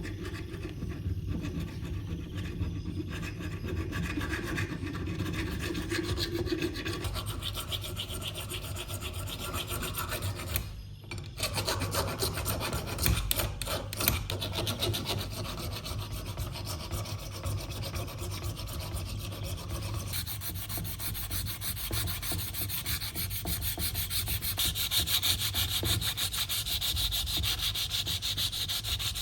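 Steady abrasive sanding, with a short break about eleven seconds in and a brighter, hissier stretch over the last third.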